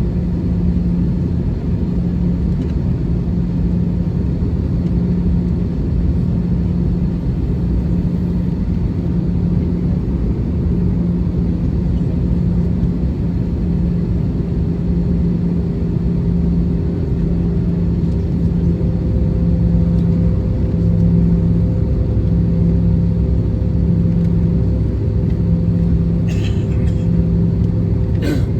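Steady cabin noise of an Airbus A320-214 in flight: a low rumble of engines and airflow with a low hum that swells and fades every second or two. About twenty seconds in, a higher steady hum joins, and two brief clicks come near the end.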